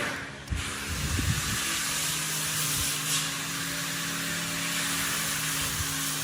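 A steady hiss, starting about half a second in, over a low steady mechanical hum.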